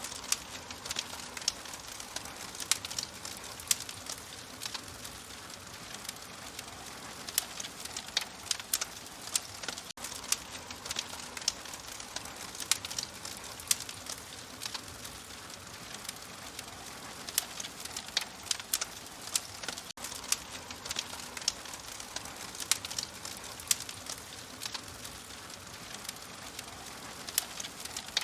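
Open fire crackling: irregular sharp pops and snaps over a steady soft hiss.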